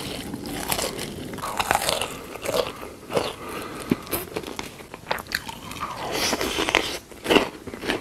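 Close-miked biting and chewing of crunchy food, a series of irregular crunches.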